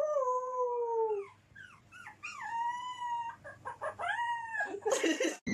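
A dog howling: one long call that slides down in pitch, then several shorter howls that rise and fall. A brief harsh noise comes near the end.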